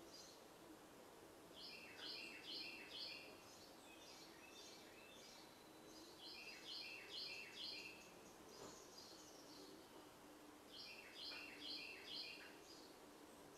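A songbird singing faintly, repeating a quick run of four or five high notes three times, with a few scattered notes in between, over a faint steady hum.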